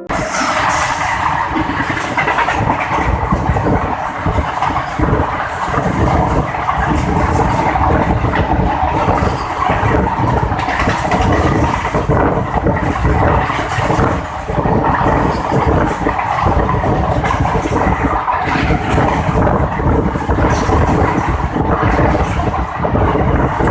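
Goods train running on the rails: a loud, continuous rumble with dense, irregular clatter of wagon wheels.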